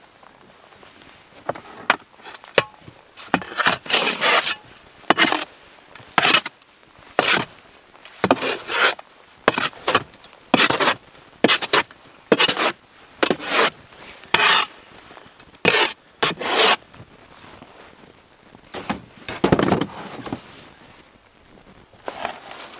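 Snow being scraped off a four-wheeler: a series of short rubbing, scraping strokes about one a second, with a pause and a few last strokes near the end.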